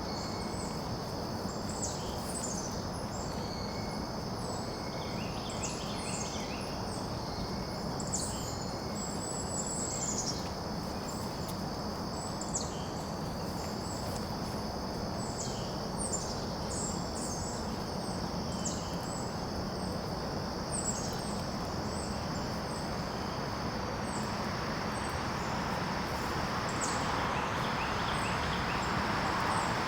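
Outdoor daytime ambience: a steady high insect drone with many short bird chirps over it, above a low even rush of background noise that swells over the last few seconds.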